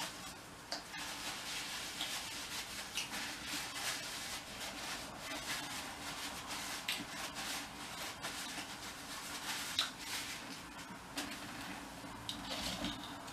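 A man chewing a chicken nugget close to the microphone: irregular small clicks and rustling over a low steady hum.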